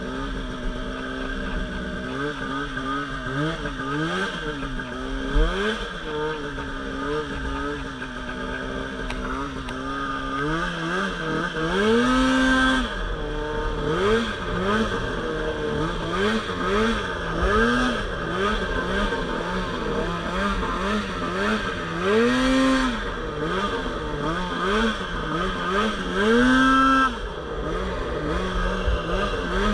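Two-stroke Polaris RMK Pro 800 snowmobile engine revving up and easing off again and again while riding in deep powder. The second half has several longer, higher revs.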